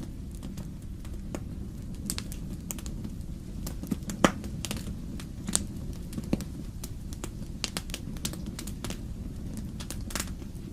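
Wood fire crackling in a fireplace: irregular pops and snaps over a steady low rumble, with one louder pop about four seconds in.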